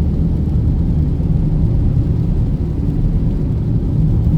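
Car on the road: a steady low rumble of engine and road noise.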